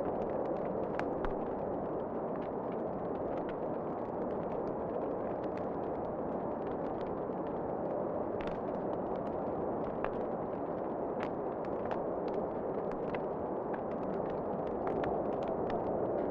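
Wood fire in a fireplace crackling, with frequent irregular sharp pops and snaps over a steady rushing noise.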